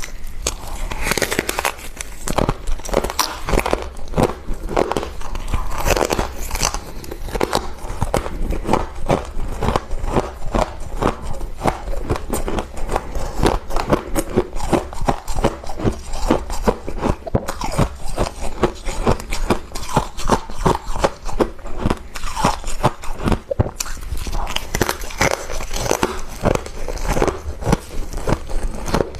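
Close-up eating of freezer frost: continuous crunchy biting and chewing of ice crystals, a dense run of crackles.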